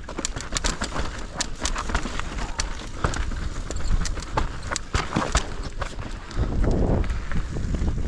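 Mountain bike clattering down a rough, rocky trail: dense rapid rattles and knocks from the bike over a steady low rumble of wind on the microphone, which grows louder near the end.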